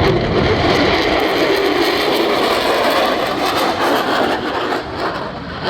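Aircraft engine noise from a plane flying past: a loud, steady rush that begins to fade about four and a half seconds in.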